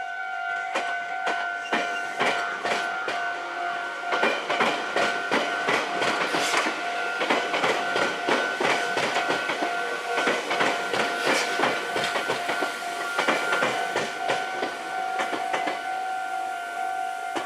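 A Meitetsu commuter train's wheels clattering over rail joints and points as it runs into the station, a quick irregular clicking that carries on for most of the time. Under it a level-crossing warning bell rings steadily.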